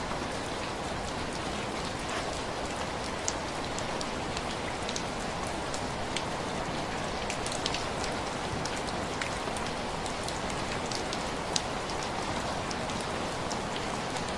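Heavy rain falling steadily, with many scattered sharp clicks of drops, two of them louder, about three seconds in and late on.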